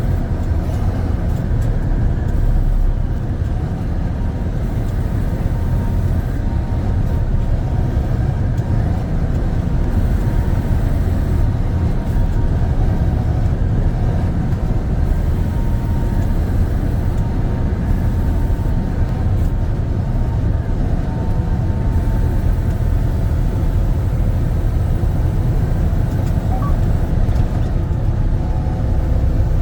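Semi-truck driving at road speed: a steady low engine drone mixed with road noise, unchanging throughout.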